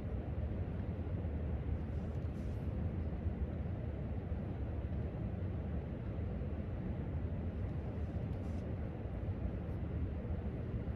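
Steady low rumble of library room ambience, with a few faint soft clicks.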